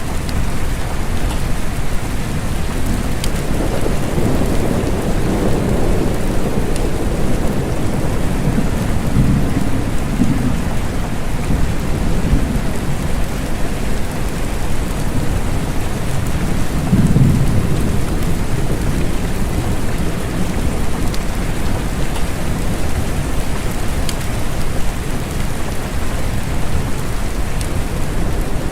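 Steady rain with distant thunder rumbling, swelling several times, loudest a little past the middle.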